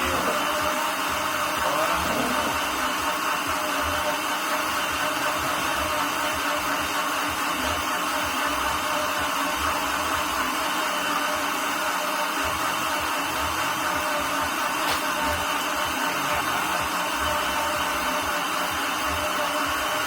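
Countertop blender motor running steadily at one constant speed, beating milk and eggs together.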